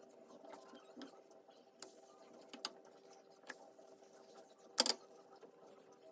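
Light clicks and knocks of cooking utensils over a steady electrical hum, with one sharp, louder clack about five seconds in.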